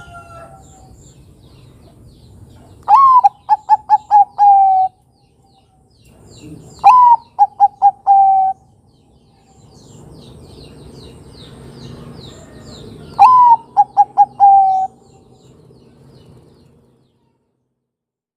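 A Bangkok-type zebra dove (perkutut) cooing three times. Each phrase opens with a note gliding down, runs quickly through four or five short notes, and ends on a longer, lower coo. Faint chirping of small birds in the background.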